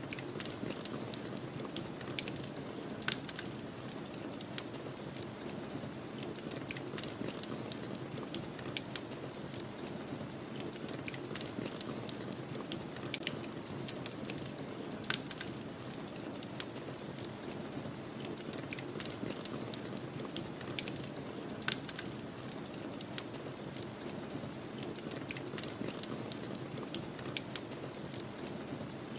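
Wood fire crackling, with frequent sharp irregular pops over a steady low rushing bed that is the snowstorm wind.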